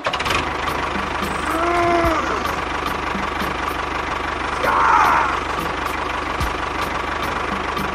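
A small engine running steadily, with a brief squeal that rises and falls in pitch about two seconds in and a louder rasping burst about five seconds in.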